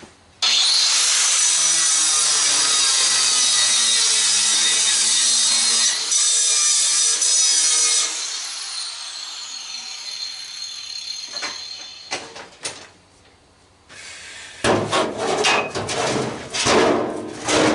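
Angle grinder with a diamond blade cutting metal on an old microwave, a loud steady high-pitched cut that stops about 8 seconds in, followed by the blade's whine falling in pitch as it spins down. Near the end, a run of knocks and metal clatter.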